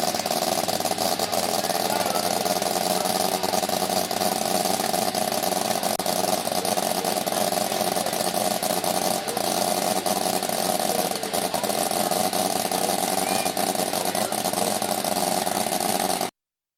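Miniature railway locomotive running steadily: a constant loud hiss with a steady drone through it. The sound cuts off abruptly near the end.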